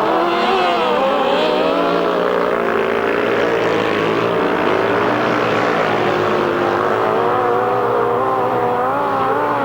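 Several grasstrack racing motorcycle engines running together, their pitches rising and falling as the riders open and close the throttle around the track.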